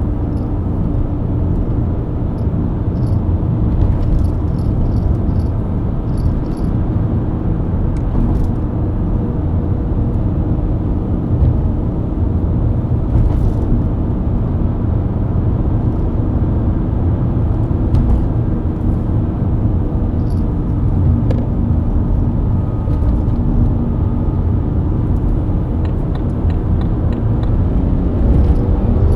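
BMW E90 323i inline-six engine running at a steady cruise, mixed with a dense low rumble of tyre and road noise. A few faint ticks and clicks sound over it.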